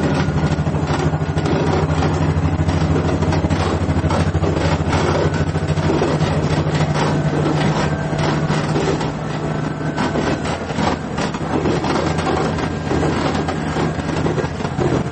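Inside a KiHa 110 series diesel railcar under way: the diesel engine drones steadily, under the rumble and clatter of wheels on rail, dipping slightly in level for a few seconds midway.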